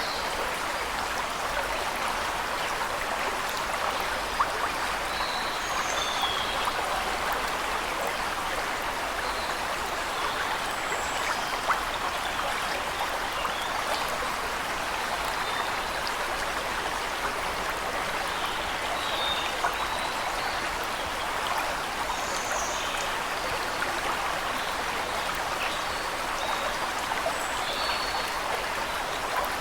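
Steady rushing and splashing of a waterfall, with small birds calling now and then in short chirps above it.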